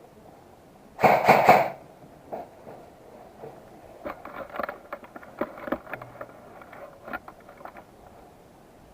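A short burst of rapid airsoft gun fire about a second in, roughly ten shots a second for under a second. Then irregular crackling and rustling, as of someone moving through dry leaves and brush.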